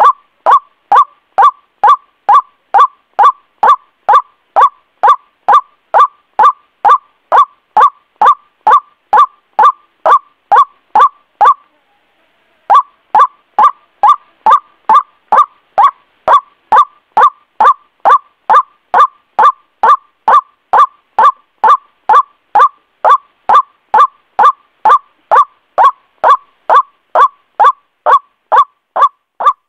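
White-breasted waterhen (ruak-ruak) call played as a bird lure: a short, loud note near 1 kHz repeated very evenly about twice a second, with a one-second break about twelve seconds in.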